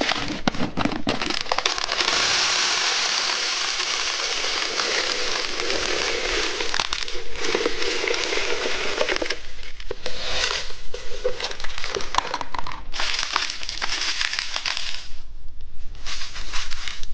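Small golden candy pearls poured out in a steady rattling stream for several seconds, then stop-start bursts of rattling and crunching candy close to the microphone.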